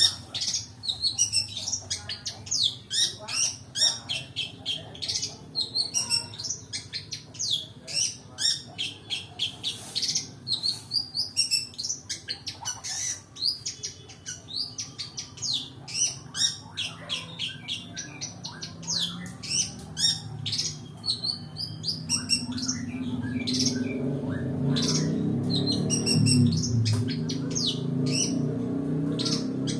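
Long-tailed shrike (pentet) singing a rapid, dense run of varied chirps and mimicked calls of other birds. Near the end a low rumble builds underneath the song.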